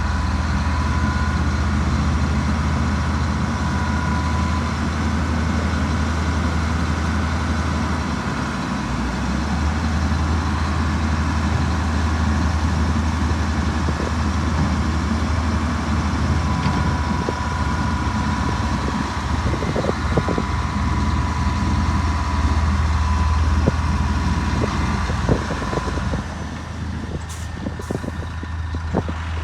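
Heavy diesel earthmoving machinery running: a deep, steady engine drone with a thin steady whine above it, and scattered knocks and clanks in the last third.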